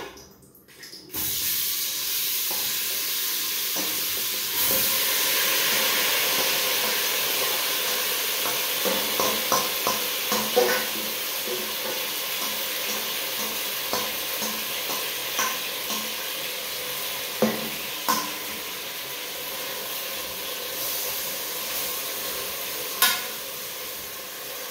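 Turkey neck sizzling in hot oil in a steel pot. The sizzle starts about a second in as the meat is tipped in and grows louder a few seconds later, with a metal spoon clinking and scraping against the pot now and then.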